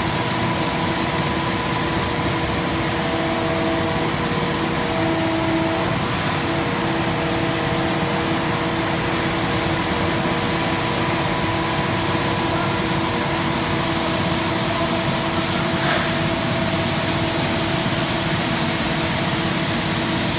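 Schwing S31HT truck-mounted concrete boom pump running: a steady engine and machinery drone with a few held tones in it, and a single short knock about three-quarters of the way through.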